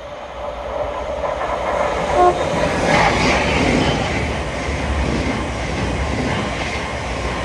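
Class 700 electric multiple unit passing through the station: a rushing wheel-and-rail noise that builds from about two seconds in and then holds steady. A brief tone sounds about two seconds in.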